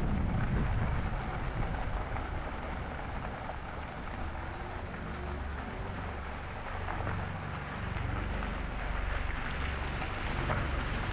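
Wind buffeting the microphone of a camera riding on a moving e-bike, a low rumble that swells toward the end, over a steady hiss of tyres rolling on the trail.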